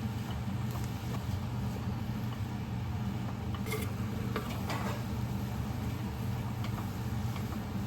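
Steady low mechanical hum of a running motor, with a few faint light clicks about halfway through.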